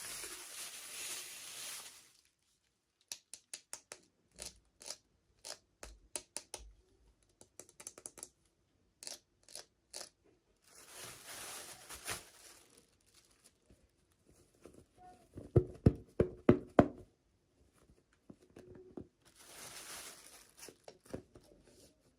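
Toy packaging being opened by hand: short stretches of tearing and crinkling wrapper, separated by runs of small clicks and taps from plastic pieces being handled. A cluster of louder knocks comes about two thirds of the way through.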